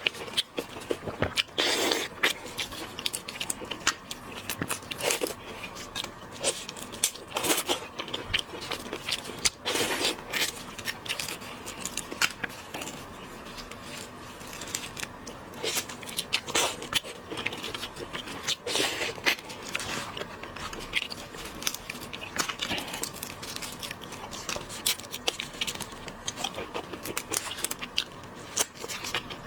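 Close-miked eating sounds: irregular crunching, crackling and sharp clicks of seafood being bitten, chewed and handled.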